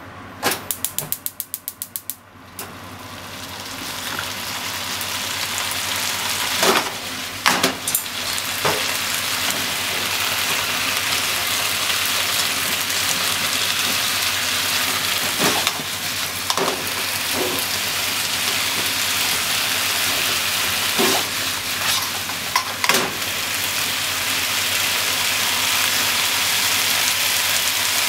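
Potatoes, shimeji mushrooms and minced meat sizzling in a nonstick frying pan, the sizzle building over the first few seconds and then holding steady, with occasional knocks and scrapes of chopsticks stirring the food. A quick run of about a dozen clicks comes in the first couple of seconds.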